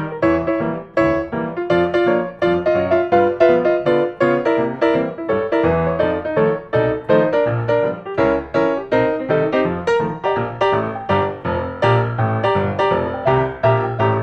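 Background piano music, a quick run of notes over a bass line at a steady pace.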